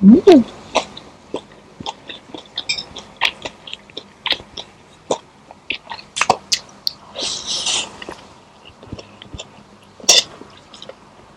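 Close-miked mukbang eating sounds: chewing, crunching and mouth clicks from noodles, egg and chicken nuggets. A short cough-like vocal sound comes right at the start, and a brief hissing sound comes about seven seconds in.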